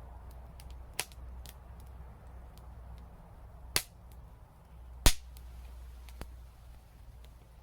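Wood fire crackling, with sharp pops from the burning wood: three loud pops about one, four and five seconds in, the last the loudest, and a smaller one soon after, over a low steady rumble.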